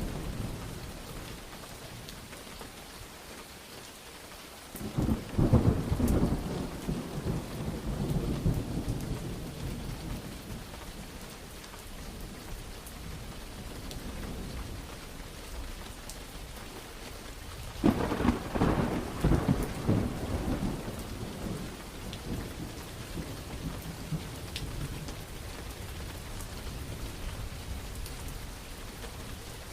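Steady rain with two thunderclaps, the first about five seconds in and the second just past the middle, each rumbling and fading over several seconds.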